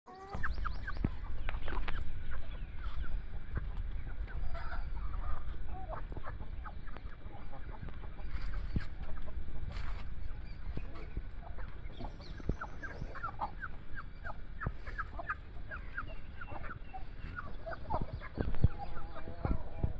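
Backyard chickens clucking, with many short calls overlapping and a quick run of chirps a little past the middle, over a steady low rumble.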